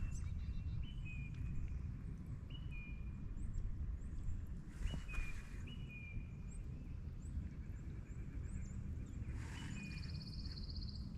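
Low wind rumble on the microphone with birds chirping: short high calls repeating every second or two, and a fast high trill near the end.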